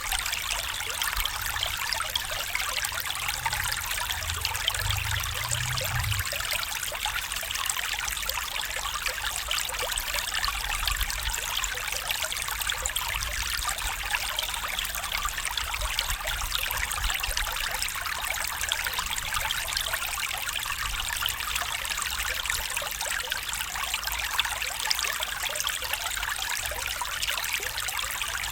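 A small stream trickling and babbling steadily over stones, with a faint low hum from about three to six seconds in.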